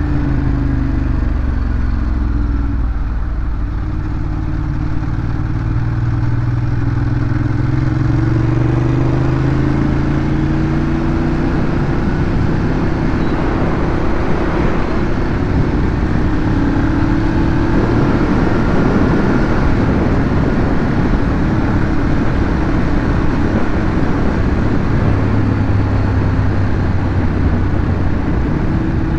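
Ducati Monster 821's 821 cc L-twin engine running through its stock exhaust while riding. The engine note drops at first, climbs steadily for several seconds and then holds fairly even, with a rushing noise in the middle.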